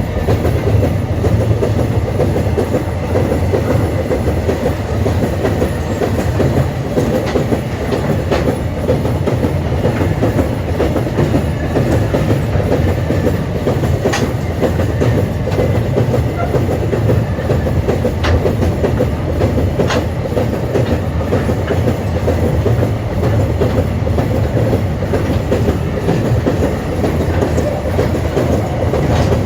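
Empty iron-ore train rolling past at steady speed: a continuous rumble of steel wheels on rail, with occasional sharp clicks as wheels cross rail joints.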